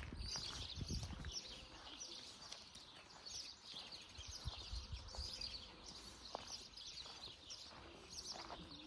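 Small birds chirping and singing repeatedly, with a few dull low thumps near the start and about halfway through.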